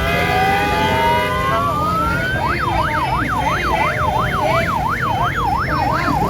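An electronic vehicle siren winds up in one slow rising wail, then switches to a fast yelp sweeping up and down about three times a second. Steady horn tones sound over it for the first second and a half, with vehicle rumble underneath.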